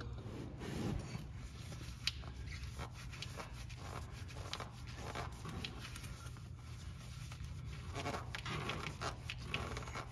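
Faint scattered clicks and rubbing as the new spin-on oil filter is threaded on by hand, over a steady low hum.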